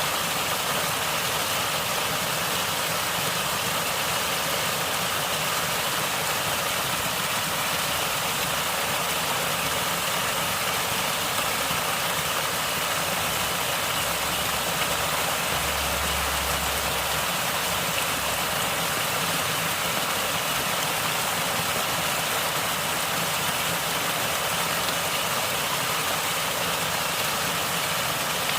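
Natural water flowing and gurgling, a steady rushing noise with no let-up.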